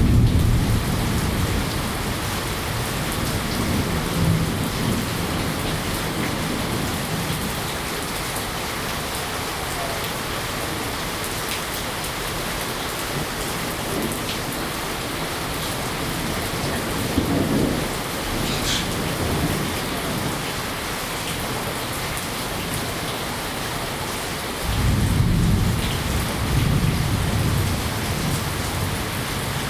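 Steady rain hissing, with low rolling rumbles of thunder: one at the start, a short one about halfway through, and a longer one in the last few seconds.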